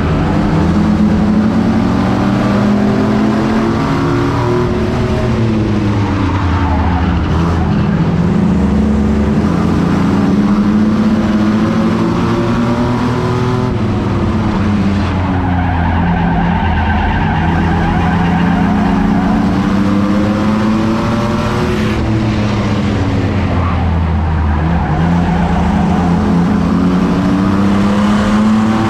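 Race truck's engine running hard under racing load, its pitch climbing and then dropping off about every ten seconds, with steady road and wind noise underneath.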